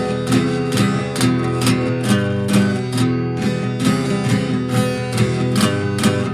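Instrumental passage of a song: a guitar strummed in a steady rhythm, about two strums a second, with no singing.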